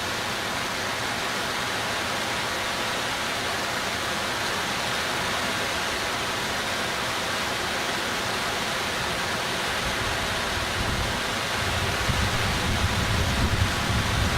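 Steady rush of swollen, overflowing floodwater in typhoon conditions. About ten seconds in, gusting wind begins to buffet the microphone with a low rumble.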